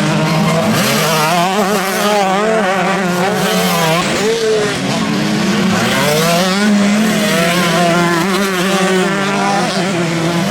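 Several motocross bikes racing, their engines revving up and down together, with pitch rising and falling continually as riders open and close the throttle.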